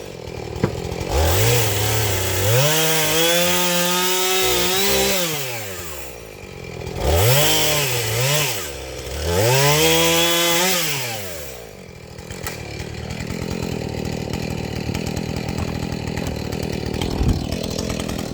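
Husqvarna chainsaw revved up and cutting wood in several bursts, its pitch climbing and sagging under load, then dropping back to idle about twelve seconds in.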